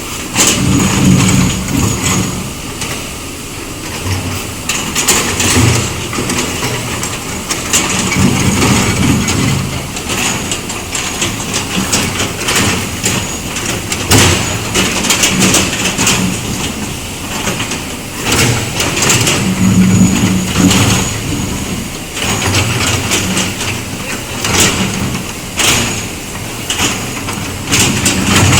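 Backhoe excavator's diesel engine running, its note rising every few seconds as the hydraulics take load, with scattered sharp knocks throughout.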